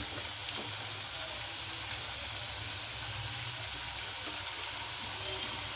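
Raw potato slices sizzling steadily in hot oil in a kadhai, the freshly added chips bubbling as their moisture fries off.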